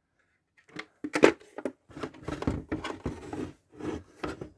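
Hard plastic Hasbro Lightning Collection helmet being lifted off its display stand and turned over in the hands: a string of irregular clicks, knocks and rubbing, the loudest knock about a second in.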